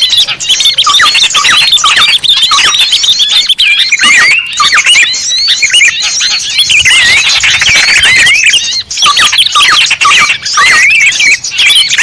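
Loud, dense chorus of small birds' chirps and squeaky calls, many quick notes sweeping up and down and overlapping: a bird-lure recording played to attract small birds.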